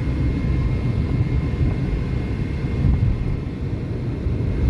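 Steady low rumble of a car on the move, heard from inside the cabin: engine and tyre noise without a break.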